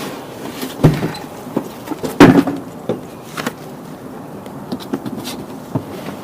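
Knocks, clicks and rustling of a folding bike being handled and unpacked from its cardboard box and packing: a few sharp knocks, the loudest about two seconds in, over scraping and rustling.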